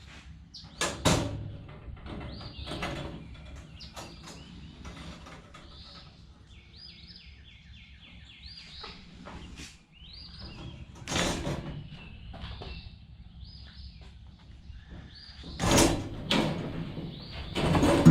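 Repeated short, high, rising chirps, with a quick run of them in the middle. About a second in, and again near the end, come loud rustling or rattling crashes.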